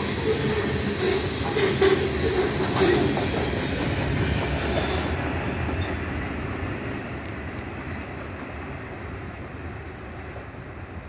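Freight train of loaded ethanol tank cars rolling past on the rails, its wheels clicking sharply over rail joints. About five seconds in, the last car goes by and the rumble fades steadily as the train rolls away.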